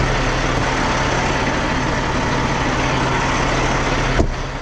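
Heavy diesel truck engine idling steadily with a constant whine over it. A single sharp knock comes near the end, after which it sounds a little quieter.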